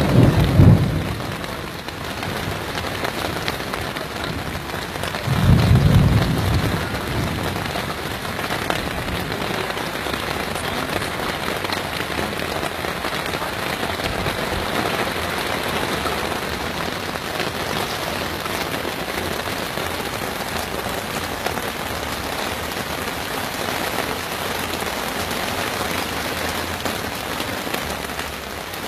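Heavy rain pouring steadily, with two low thunder rumbles of about a second each: one right at the start and another about six seconds in.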